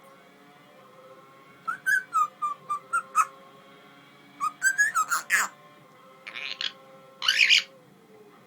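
Pet parrot whistling: two runs of short pitched notes, then two rough, raspy calls near the end, the last one the loudest.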